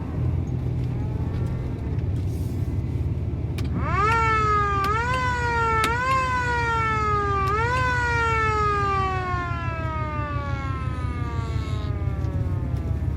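A siren on the ranch truck wails in four quick rising-and-falling pulses, then winds slowly down, sounded to call the cattle to feed. The truck's engine runs steadily underneath.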